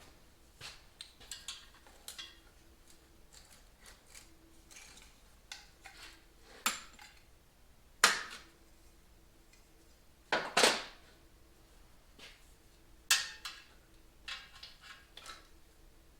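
Metal parts clinking and knocking as they are handled and set down on a workbench: scattered light clicks, with a few sharper, louder knocks in the second half.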